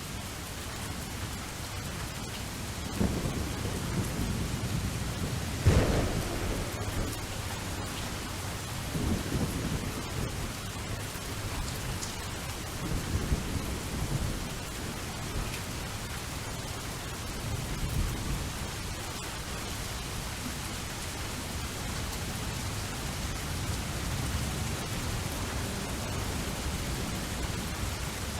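Steady rain falling, with thunder: a sharp thunderclap about six seconds in, the loudest moment, and several low rolling rumbles afterwards.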